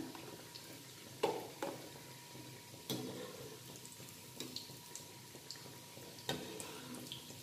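Breadcrumb-coated beef cutlets frying in sunflower oil in a small black kadai, a faint steady sizzle. A few sharp clicks of a metal slotted spoon against the pan come through it.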